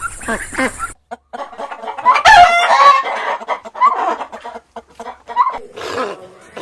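Chickens: a rooster crows once, loudly, about two seconds in, followed by shorter clucking calls.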